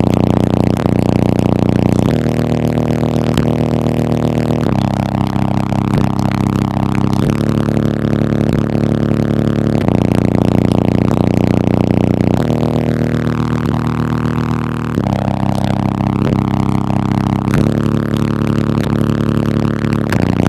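Hip-hop instrumental on a car audio system, heavy sustained bass and synth notes shifting every couple of seconds, with little treble.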